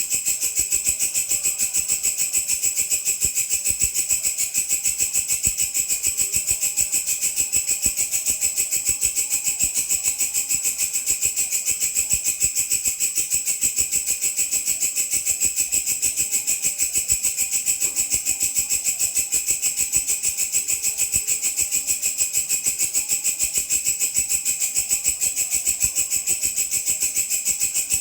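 Grasshopper (belalang) stridulating: a continuous high-pitched, rattling buzz made of rapid, even pulses, without a break.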